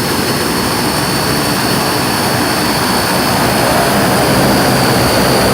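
Shaanxi Y-8F-200W transport aircraft's turboprop engines running after start-up: a steady loud engine noise with a high turbine whine that sags slightly in pitch, the overall sound growing a little louder about two thirds of the way through.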